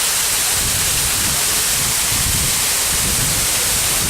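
Steady rushing of a waterfall: an even roar of falling water without a break.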